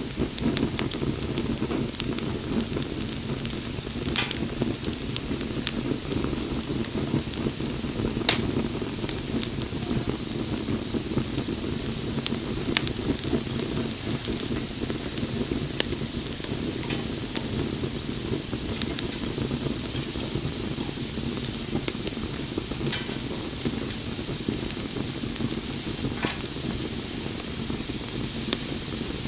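Wood bonfire burning with a steady hiss and scattered sharp crackles and pops, the loudest pop about eight seconds in.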